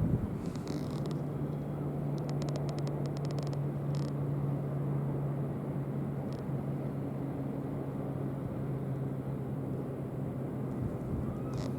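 A steady low engine hum over outdoor background noise, with a quick run of faint clicks about two to three and a half seconds in.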